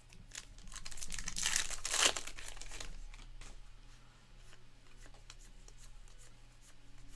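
Crinkling and tearing of a trading-card pack wrapper, loudest between one and two seconds in, followed by faint ticks of cards being handled.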